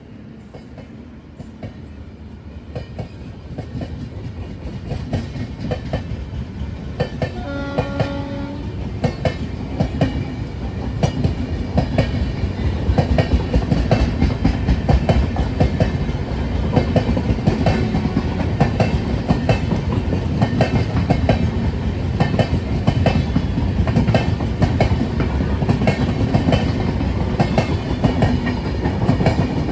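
Train running on rails, its wheels clicking over rail joints and growing louder over the first dozen seconds before holding steady. A single horn blast of about a second sounds about eight seconds in.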